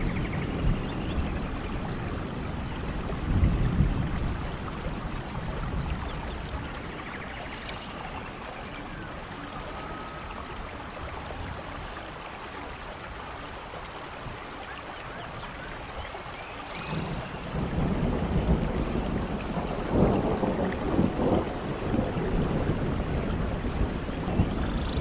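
Steady rainfall with rolling thunder. Low rumbles fill the first few seconds, die down to plain rain through the middle, and swell again about two-thirds of the way through.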